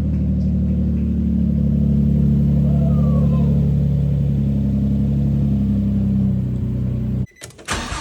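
Nissan Skyline 350GT's 3.5-litre V6 running steadily just after its first start since the work, its pitch lifting a little in the middle. It stops abruptly near the end and a different loud, noisy sound follows.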